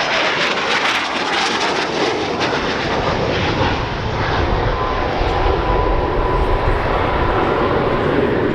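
Spanish Navy AV-8B Harrier's Pegasus jet engine passing loudly overhead. The high hiss fades over the first few seconds and gives way to a deep rumble as the jet moves away.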